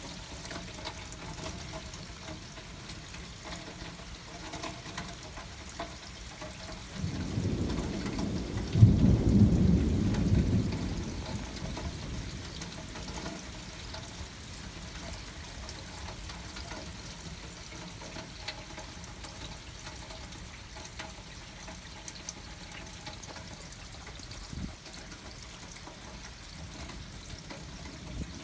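Steady rain with a rumble of thunder that builds about seven seconds in, is loudest for a couple of seconds, and dies away after about five seconds.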